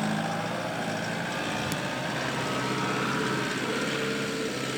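Diesel 4x4 SUV engine running steadily at low, even revs.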